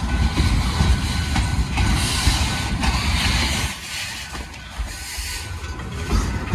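Train rolling past with a heavy low rumble and rail noise. The rumble drops away for about two seconds past the middle, then comes back.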